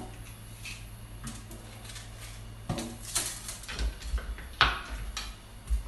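Kitchen handling noises: a few short knocks and clatters, the sharpest about three seconds in and again past halfway, over a steady low hum.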